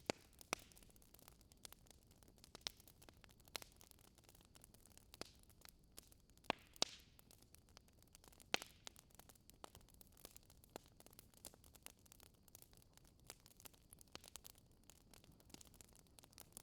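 Wood fire in a fireplace crackling quietly: irregular sharp pops and snaps over a faint hiss, a few of them louder than the rest.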